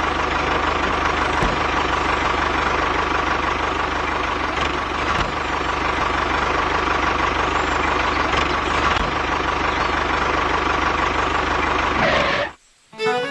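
Engine of a homemade tractor running steadily, then cutting off abruptly near the end.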